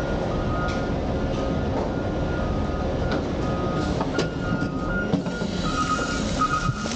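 Heavy diesel vehicle running at a waste transfer station, with a reversing alarm beeping over and over and a few sharp knocks about four and five seconds in.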